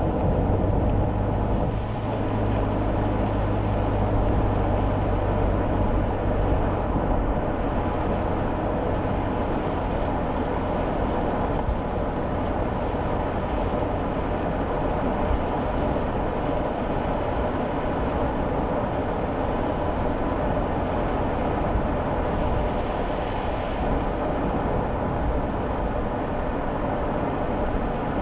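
Steady engine and tyre road noise heard inside a kei car's cabin while driving. A low engine hum stands out for about the first eight seconds, then fades into the even road noise.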